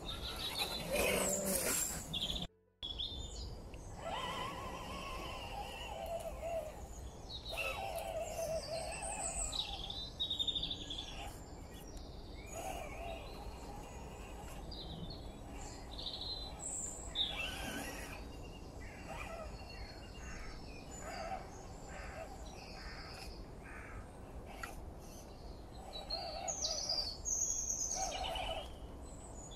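Wild birds chirping and calling in short, scattered phrases over a steady outdoor background hiss.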